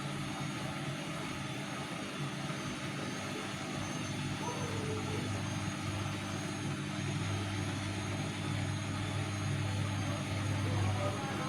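Vestel CM8710 washing machine running its final rinse, the drum motor humming steadily, growing louder for several seconds from about halfway through.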